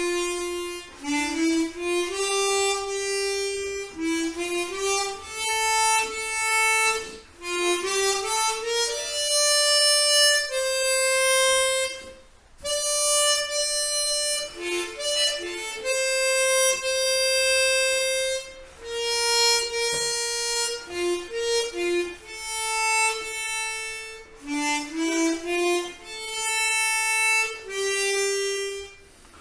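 Solo chromatic harmonica playing a slow practice melody of held single notes, phrases broken by short pauses for breath.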